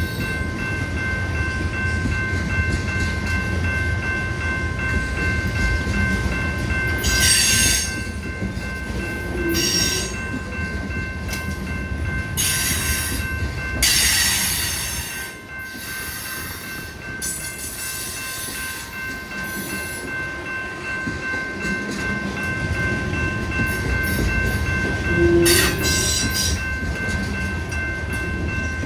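A train rolling past with a steady low rumble. Several steady high tones carry over it, like metal wheels squealing on the rail, and short hissing bursts come and go.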